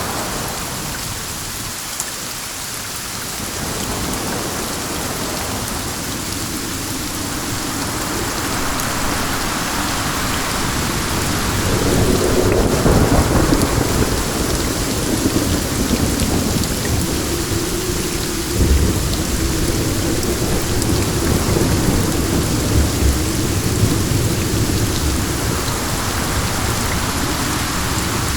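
Steady heavy rain hissing, with a long roll of thunder swelling from about halfway through and rumbling on to the end.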